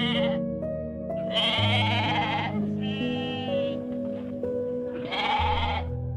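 A farm animal bleating three times, each call about a second long and wavering, over background music with slow held chords.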